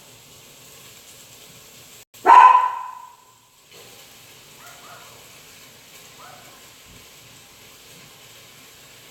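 A dog barks once, loud and sharp, about two seconds in, then gives two faint short yips a few seconds later.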